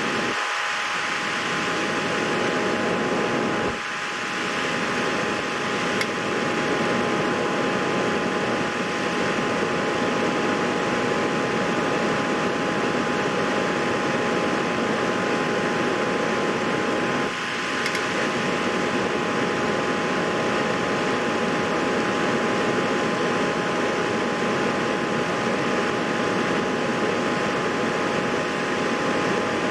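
Steady fan-type hiss with two faint steady tones running through it, and a small click about six seconds in and another about eighteen seconds in.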